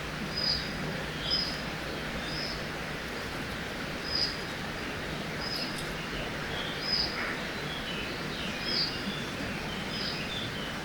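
Forest birdsong over the steady rush of a river: one bird repeats a short high call about once a second, and fainter chirps from other birds join in the second half.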